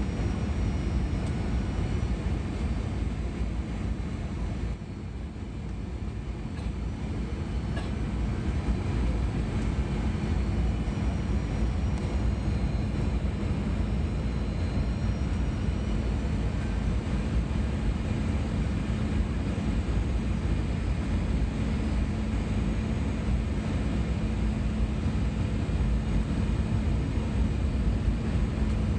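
Airbus A320 cabin noise: the jet engines and the airflow in a steady drone with a low hum, dipping briefly about five seconds in and then building again.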